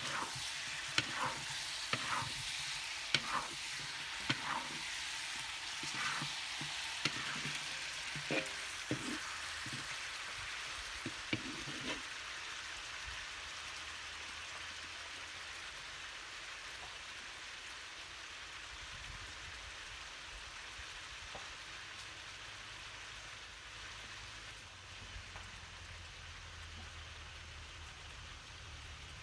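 Food sizzling in a hot pan, stirred with a utensil that knocks against the pan about once a second. The stirring stops about twelve seconds in, and the steady sizzle carries on a little quieter.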